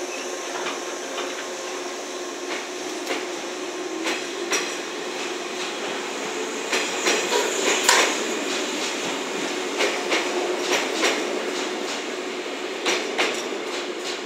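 Kumoya 145 and 115-series electric train running past close by, its steel wheels clacking sharply and irregularly over rail joints and pointwork, with a steady hum underneath. The knocks come thickest about halfway through.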